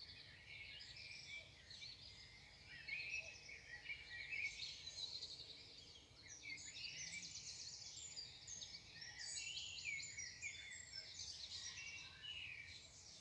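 Morning chorus of several songbirds, their chirps, rapid trills and short whistled phrases overlapping without a break.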